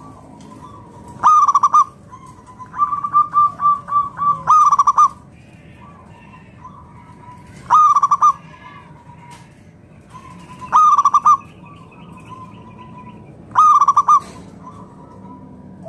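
Zebra dove (perkutut) cooing: five loud phrases of quick rolling coos, one about every three seconds. The second phrase opens with a stuttering run of short notes. Fainter chirps from other birds sound between the phrases.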